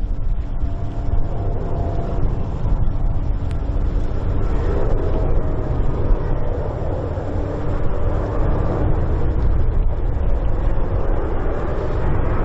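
A Boeing 777-300ER's GE90 jet engines as the airliner flies over on final approach: a steady low rumble with faint whining tones that swell through the middle.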